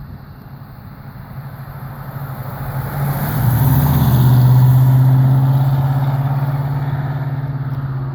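Freshly installed Pontiac 400 V8 in a 1969 Firebird under way, the engine note growing louder over the first few seconds as the car pulls, then holding fairly steady.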